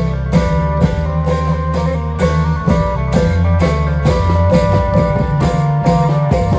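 Isan klong yao long-drum band playing: a steady drum beat of about two strokes a second under a plucked-string melody and a heavy bass line.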